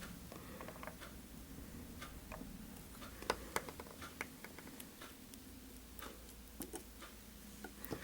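Scattered small clicks and snips of fly-tying work at the vise, such as fine scissors trimming the excess Swiss straw, over a faint room hum. The clicks come irregularly, most of them in the second half.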